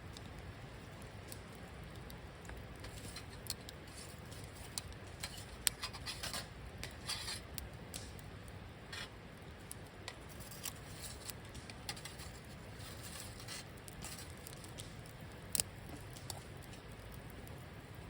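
Wood campfire crackling: irregular small snaps and pops, a cluster of them around six to seven seconds in and one sharp pop a little past fifteen seconds, over a low steady rumble.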